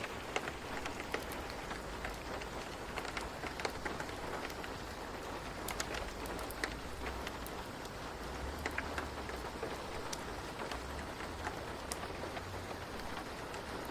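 Steady rain falling, with a constant hiss and many distinct drops pattering on a surface.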